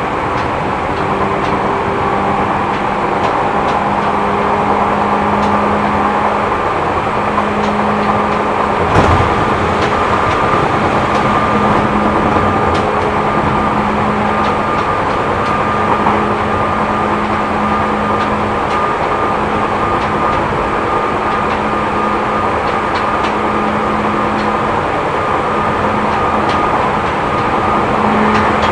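Seibu New 2000 series electric train running at speed, heard from inside the passenger car: a steady rumble of wheels on rail with a steady low hum and a fainter higher whine, and one sharp knock about nine seconds in. The car has a wheel flat, which adds a knocking to the running sound.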